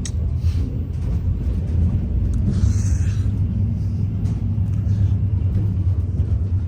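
Long-distance passenger train running, a steady low rumble.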